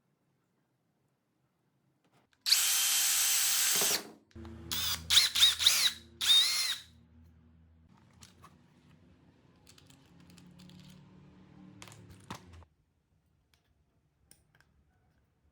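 Electric drill running: one steady run of about a second and a half, then several short bursts whose whine rises and falls as the trigger is squeezed and released, followed by a faint low hum.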